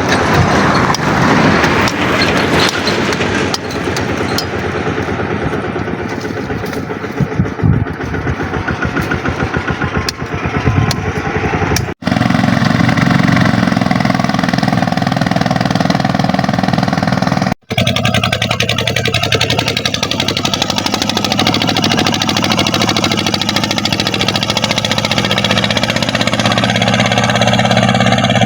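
Kubota tractor's diesel engine running, in three stretches broken by abrupt cuts about twelve and eighteen seconds in. The later stretches hold a steady engine note.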